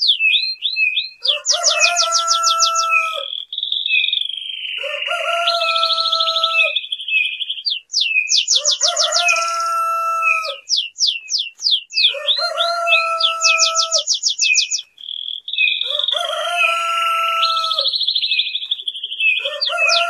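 Birds calling in a repeating cycle about every four seconds: quick falling chirps and a fast high trill, alternating with a long, steady, lower-pitched call.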